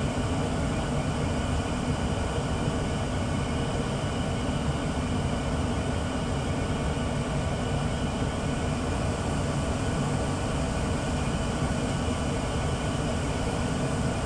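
1994 Tempstar SP80 gas furnace running at steady state, a low, even rumble from its gas burner flames and blower.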